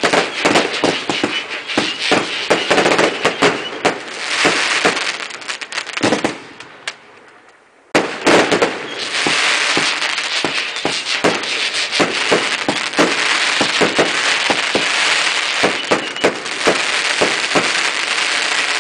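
Fireworks going off: rapid bangs over a dense crackling. They die away about six seconds in, then start again with a sharp bang about eight seconds in and keep crackling.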